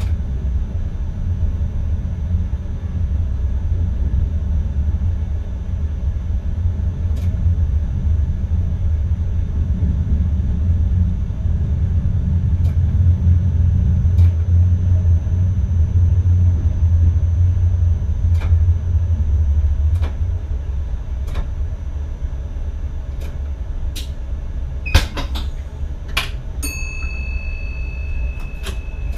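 Low rumble of an NS ICM electric train running on the rails, heard from inside the driver's cab, swelling midway and then easing. Near the end come a few sharp clicks, then a steady high beep starts.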